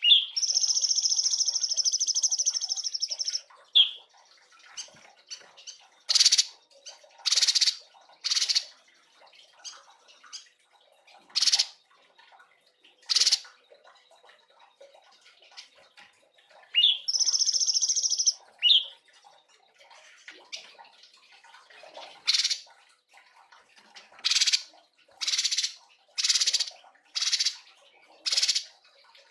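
Cungko songbird singing: two long high trills, one of about three seconds at the start and a shorter one midway, between many short, sharp single notes that repeat about once a second toward the end.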